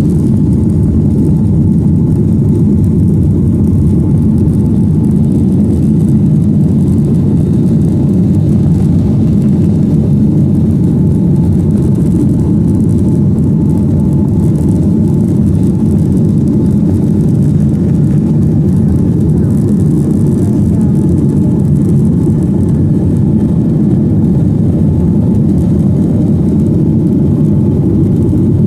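Boeing 737-900ER cabin noise: a steady, loud, low rumble of its CFM56 jet engines and airflow, heard from inside the cabin.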